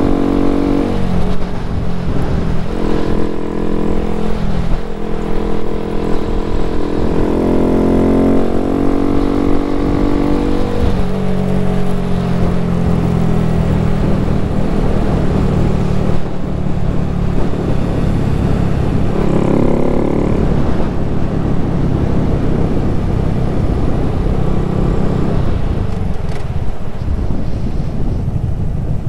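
Honda Grom's small single-cylinder engine running on the road, its pitch climbing several times as it accelerates through the gears, then holding steady, with wind rushing over the microphone.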